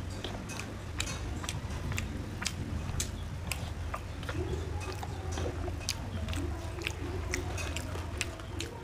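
Close-miked chewing of a mouthful of rice, with many irregular sharp, wet mouth clicks and smacks, and the soft squish of rice being mixed by hand on a metal plate. A steady low hum runs underneath.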